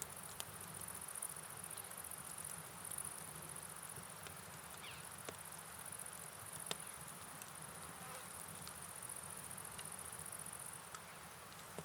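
Night rain ambience: a soft, steady wash of rain and running water under a high, continuous insect-like chirring, with a few light scattered ticks of drops.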